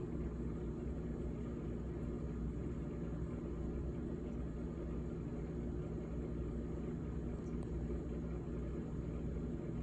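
GE GTH18XCTZRBB top-freezer refrigerator running: a steady low hum with several evenly spaced tones under a faint hiss, unchanging throughout.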